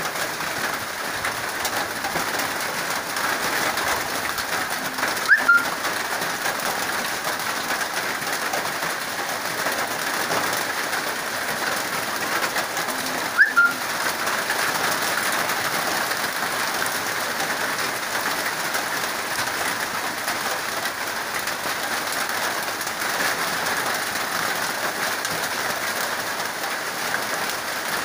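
Steady rain falling. A short bird call cuts through it twice, about five seconds in and again about thirteen seconds in.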